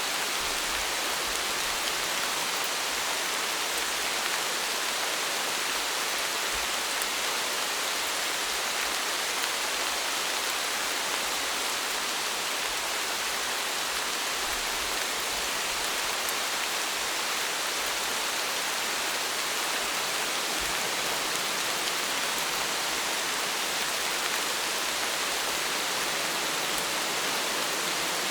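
Steady rainfall: an even, unbroken hiss of rain that holds the same level throughout.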